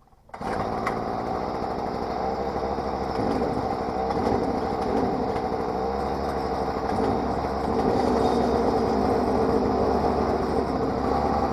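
Stihl string trimmer's small engine starting up about half a second in and running steadily, a little louder in the second half. It runs after a carburetor, spark plug and air filter replacement.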